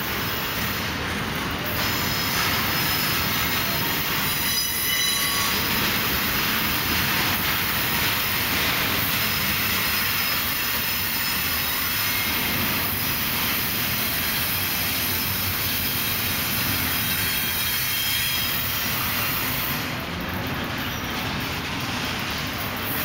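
Double-stack intermodal freight cars of a CSX train rolling steadily past on the rails, wheels and cars running with a continuous rumble, with a high wheel squeal now and then, clearest a few seconds in.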